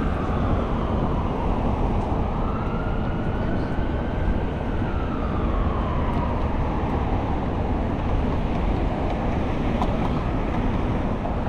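An emergency vehicle siren wailing in slow rising and falling sweeps, over a steady rumble of city traffic.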